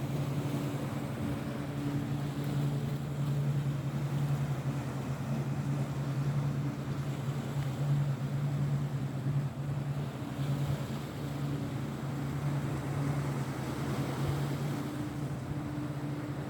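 Motorboat engine running steadily, a low drone over a constant rushing hiss.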